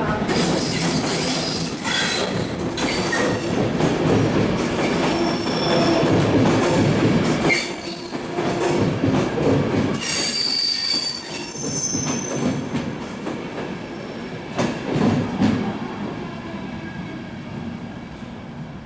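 ÖBB electric locomotive and double-deck coaches running into the platform, with high-pitched wheel squeal rising and falling over the first dozen seconds and clatter over the rail joints. The train then slows and the noise fades, with a couple of knocks from the wheels near the end.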